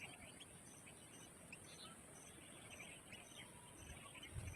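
Faint wild ambience: scattered small bird chirps, with a short high insect-like chirp repeating about twice a second, and a brief low thump near the end.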